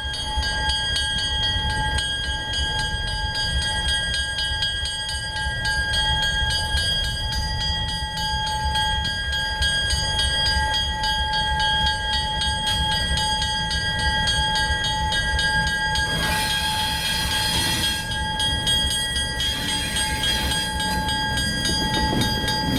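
Canadian Pacific self-propelled Rail Diesel Car (dayliner) running along the track: a steady low rumble with several constant high tones over it. Two bursts of hiss come about sixteen and nineteen seconds in.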